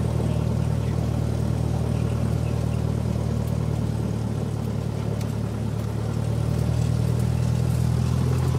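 Cessna 172's piston engine and propeller running steadily, with a low even drone that grows a little louder about six seconds in.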